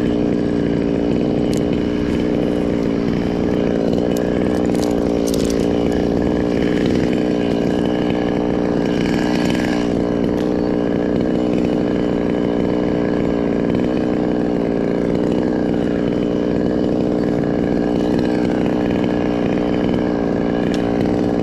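Chainsaw running steadily at high speed, cutting into the very hard wood of an Australian pine (casuarina).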